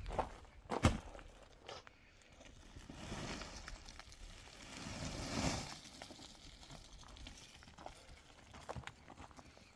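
A sharp knock about a second in, then rustling and crunching noises that swell twice.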